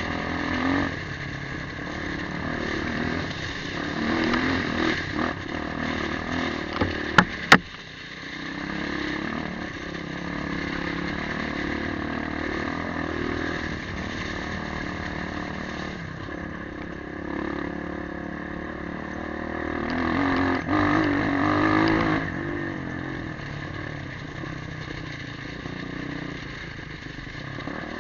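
Motorcycle engine running on the move, its pitch rising and falling with the throttle. There are a few sharp clicks about seven seconds in, and the engine gets louder for a couple of seconds about twenty seconds in.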